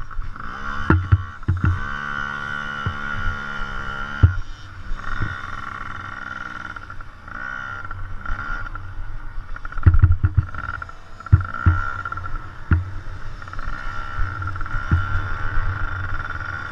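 Dirt bike engines running on a motocross track, one bike holding a steady note for a few seconds about a second in, with low thumps of wind or handling on the microphone.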